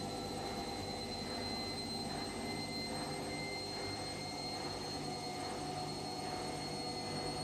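Washing machine running: a steady machine hum with a few fixed tones, and a faint regular pulse about every two-thirds of a second.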